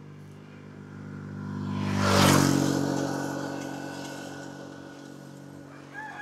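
A motorcycle passing along the road, its engine growing louder to a peak about two seconds in, dropping slightly in pitch as it goes by, then fading away. A rooster starts crowing near the end.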